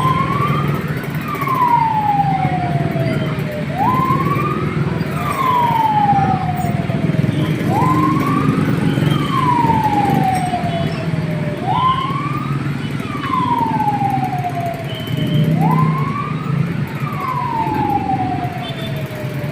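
Fire truck siren wailing in a repeating cycle about every four seconds: a sudden jump up in pitch, a short further rise, then a long slow fall. A steady low rumble runs underneath.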